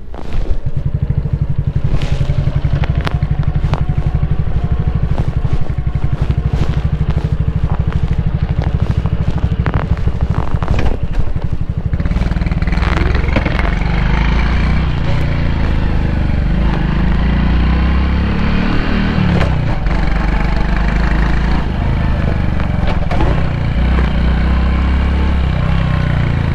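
Honda Cross Cub's single-cylinder four-stroke engine catching on a kick-start about half a second in, then idling with a steady low putter. From about halfway it runs fuller as the bike moves off, its pitch rising and falling.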